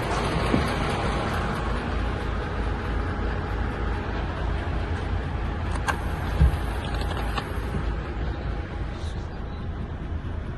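DAF XF 480 tractor unit's six-cylinder diesel engine running steadily, with a single thump a little over six seconds in.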